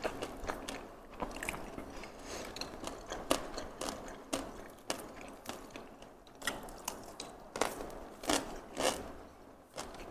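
Close-up chewing and crunching of crispy fried anchovy sambal (sambal garing bilis) with rice, eaten by hand. Irregular crisp crackles and clicks come a second or so apart, with soft wet mouth sounds between them.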